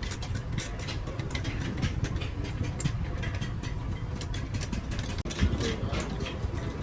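Mechanical clatter in an engine workshop: rapid, irregular clicks and knocks over a steady low rumble.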